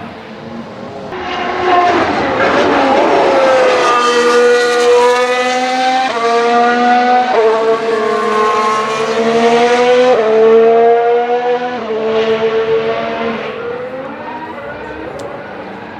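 Formula 1 car's turbocharged V6 hybrid engine accelerating hard, its pitch climbing then dropping sharply at each upshift, about four shifts in all, then fading away over the last few seconds.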